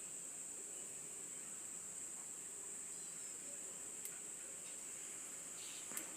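Quiet, steady high-pitched background hiss, with two faint clicks about four and six seconds in.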